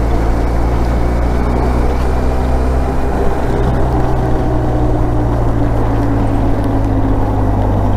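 Motorcycle engine running at a steady road speed under riding wind noise, its note shifting slightly about three and a half seconds in.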